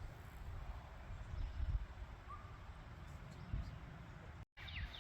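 Low, uneven rumble of wind on the microphone, with one faint bird note. After a sudden cut near the end, a small bird gives a quick run of falling chirps.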